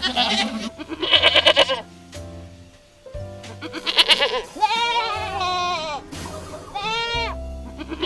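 Goat bleating about four times in wavering calls, over soft background music.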